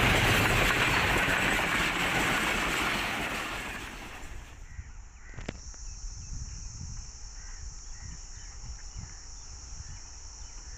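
Noise of a passenger train running past at speed, loud at first and fading away over about four seconds as it recedes. After that, a quiet outdoor background with a single knock and faint bird calls.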